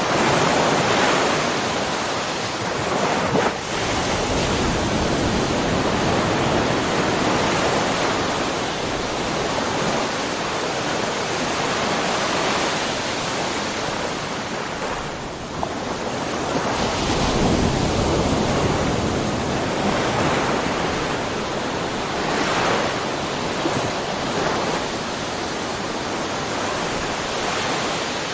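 Ocean waves breaking and washing on a shore, a continuous rushing surf that swells and eases every few seconds, with wind noise on the microphone.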